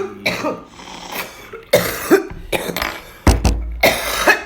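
A person coughing repeatedly in harsh fits, the typical cough after inhaling a cannabis dab. A heavy low thump comes about three seconds in.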